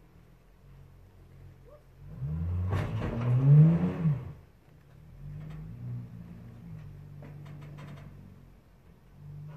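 Car engine revving hard under load for about two seconds, its pitch climbing, over a rough rushing noise of wheels spinning in dirt, as it strains to drag an overturned car by rope. It then drops back to a lower, steadier run with a few light clicks.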